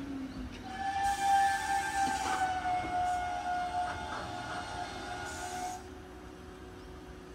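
Nose Electric Railway electric train running unseen close by: a high whine of several tones slides slowly down in pitch, with a hiss in the first couple of seconds, and fades out about six seconds in.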